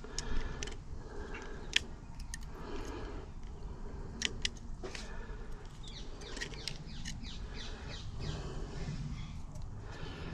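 Scattered light metallic clicks and taps from handling the parts of a stripped-down UPVC door lock gearbox, a few of them sharp, over a steady low background hum.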